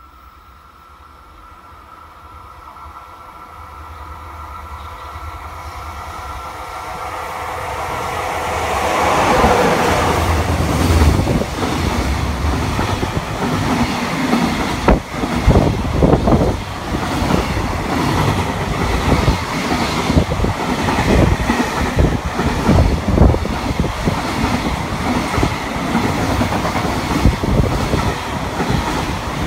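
Container freight train hauled by an EF66 electric locomotive passing through a station without stopping. It grows steadily louder for about nine seconds as it approaches, then the wagons run past with the rhythmic clickety-clack of wheels over rail joints and repeated heavy knocks.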